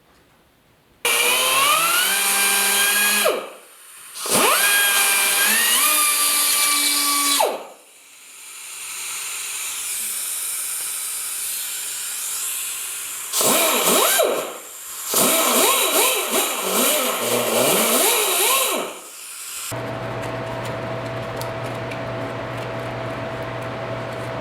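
Handheld power tool such as a drill or rotary tool run in several bursts, its pitch rising each time it spins up, with a quieter steady stretch in between. Near the end it gives way to a steady machine hum.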